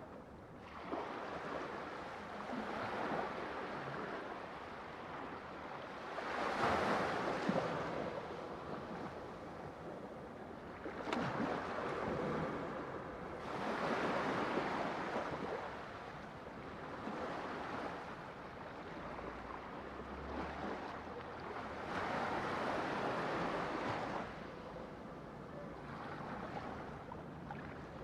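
Ocean waves breaking on a shore, a steady wash of surf that swells and ebbs, with a louder break every few seconds.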